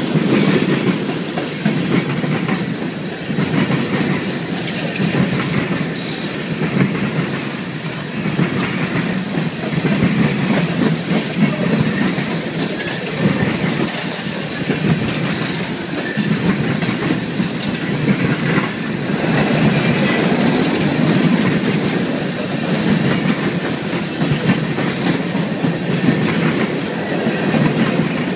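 Coal train cars rolling by: a steady rumble of steel wheels on the rails, with the clickety-clack of the wheelsets passing over rail joints.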